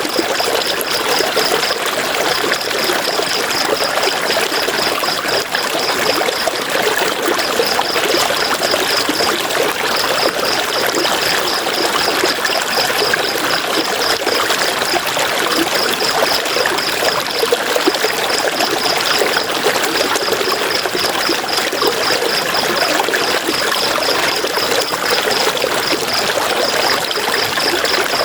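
River water flowing steadily. A high, rapidly pulsing trill comes and goes over it in runs of a few seconds.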